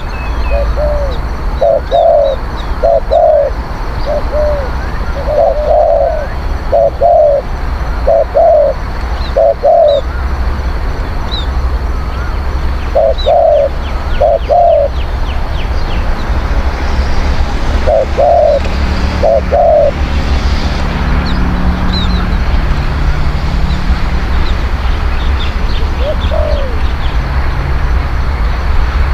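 Spotted dove cooing in repeated phrases of short coo notes, which stop about twenty seconds in, with one more coo later. Small birds chirp faintly in the background over a steady low rumble.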